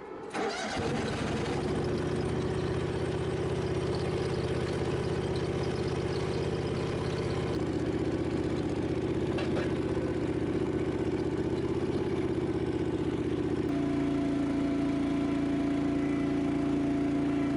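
Compact utility loader's engine running steadily, its note shifting slightly lower about fourteen seconds in.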